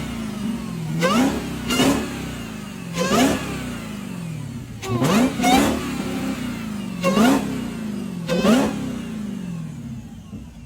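Dodge Charger Hellcat's supercharged V8 revved in sharp blips, about seven times, each rise in pitch falling back to idle, with the high supercharger whine sweeping up and down over the aftermarket carbon intake's induction noise.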